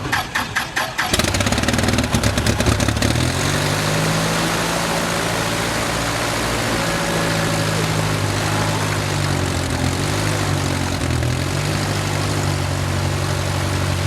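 Light aircraft piston engine on its first start: the starter cranks it with rapid even pulses, and it catches about a second in. It fires unevenly for a couple of seconds, then settles into a steady idle.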